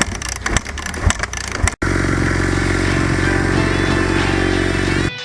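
Dirt bikes being kick-started in the cold: a run of sharp clattering knocks. About two seconds in, a dirt bike engine starts abruptly and runs steadily and loudly.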